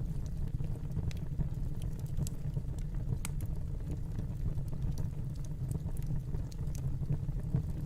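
Fireplace fire burning, with a steady low rumble and irregular sharp crackles and pops.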